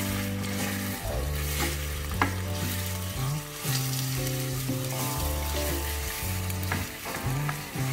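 Strips of beef sizzling in hot oil in a frying pan as they are stirred with a wooden spatula, with a few sharp clicks of the spatula against the pan, the sharpest about two seconds in. Background music with sustained low notes plays underneath.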